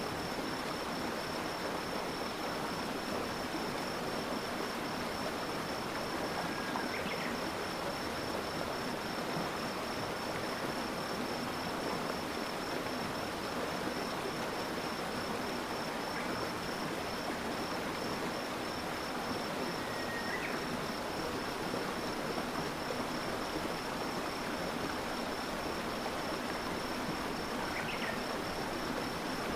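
Flowing stream water rushing steadily, with a continuous high insect trill behind it and a few brief chirps.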